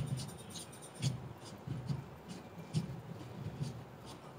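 A faint, steady drumbeat of low thumps, about two beats a second, with light ticking over it.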